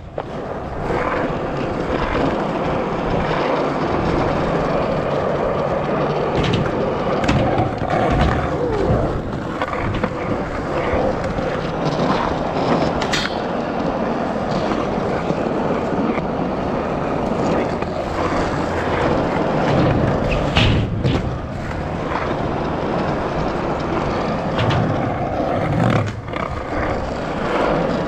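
Skateboard wheels rolling over pavement in a continuous rumble, with a few sharp clacks of the board.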